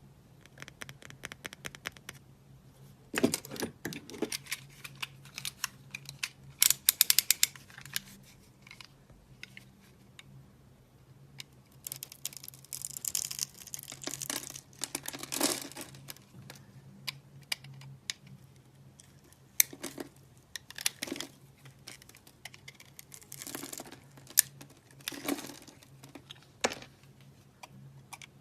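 Dry soap being cut and crumbled: crisp crunching and crackling in irregular bursts, with a quick run of sharp clicks about seven seconds in.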